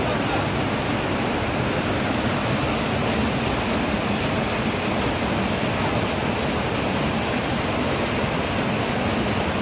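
Qaleh Rudkhan river water rushing steadily.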